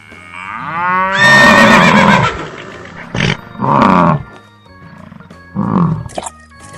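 Loud animal-like calls over background music: a rising glide, then three pitched cries, the first and longest about a second in, shorter ones near the middle and near the end.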